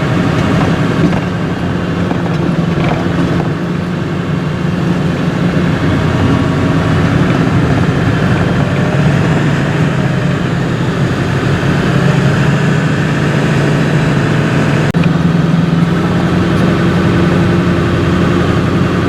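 Steady engine and road noise of a vehicle being driven, a continuous low hum, with a single brief click about fifteen seconds in.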